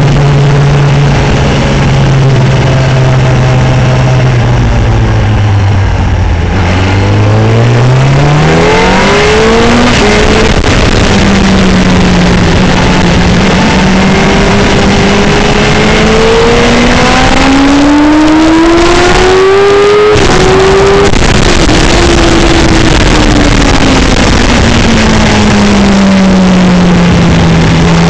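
Racing motorcycle engine heard onboard with heavy wind noise on the microphone. The revs drop as the bike slows for a corner, climb hard from about 7 s in, keep rising to a peak about 20 s in, then fall away and pick up again near the end.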